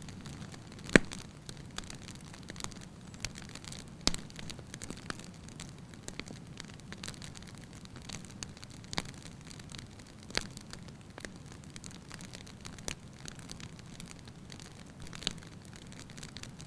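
Fire in a fireplace crackling: a steady low rumble of burning with scattered sharp pops, the loudest about a second in and another at about four seconds.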